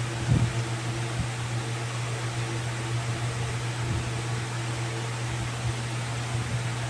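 Steady mechanical hum with an even whooshing hiss, like an electric fan or air conditioner running, with a couple of short low thumps about half a second in and near four seconds.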